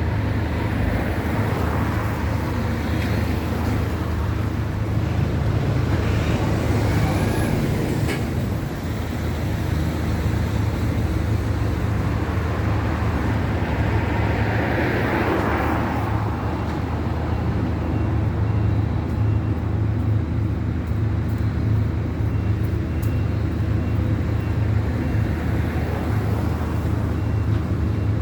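A steady low engine rumble with road traffic, and vehicles swelling past about six and fourteen seconds in.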